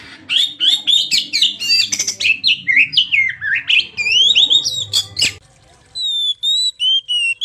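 Oriental magpie-robin (kacer) song: a rapid, varied run of whistles and chattering notes for about five seconds, then after a brief pause a clearer series of repeated whistled notes.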